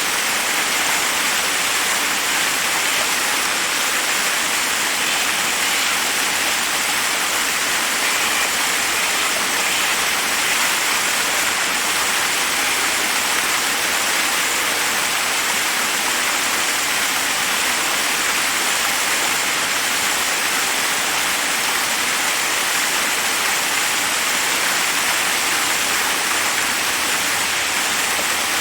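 Waterfall rushing over rocks: a steady, unbroken hiss of falling water.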